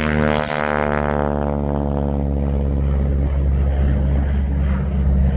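North American T-6 Texan's nine-cylinder Pratt & Whitney R-1340 radial engine and propeller passing overhead. The pitch drops slightly and the higher part of the sound fades over the first two or three seconds, leaving a low drone as the plane moves away.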